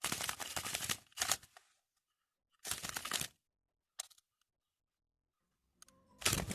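Several short bursts of crackling, rustling noise separated by dead silence, with music starting near the end.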